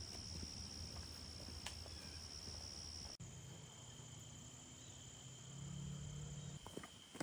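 Insects trilling steadily in a high, thin tone. About three seconds in, the sound cuts abruptly to a different steady trill at another pitch. A few faint ticks come near the end.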